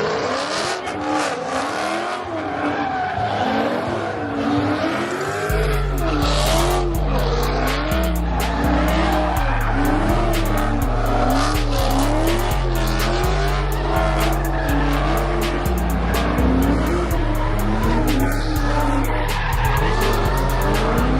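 Car doing a burnout: the engine revs up and down over and over while the tires squeal. Music with a deep, stepping bass line and fast hi-hats comes in about five seconds in.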